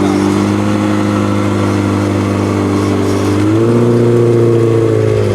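Sports car engine running at steady, held revs, its pitch stepping up slightly about three and a half seconds in and dropping back near the end.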